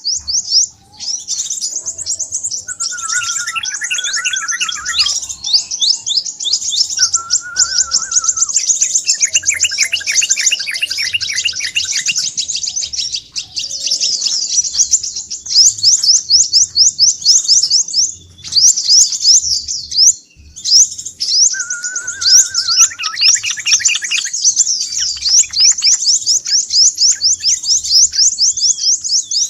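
Crimson sunbird (sepah raja) calling excitedly, in rapid high-pitched chirping trills almost without pause, with lower twittering runs now and then.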